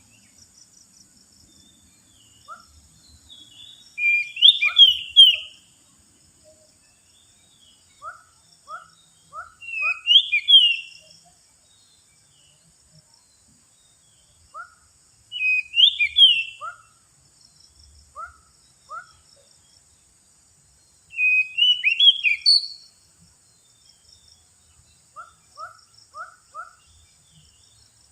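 Oriental magpie-robin (kacer) song played as a bird-trapping lure call: a loud, rich whistled phrase about every six seconds, four times. Short rising chip notes come singly or in quick runs of three or four between the phrases.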